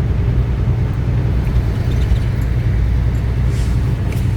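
Semi-truck's diesel engine running at low speed, heard from inside the cab: a steady low rumble, with a few faint ticks near the end.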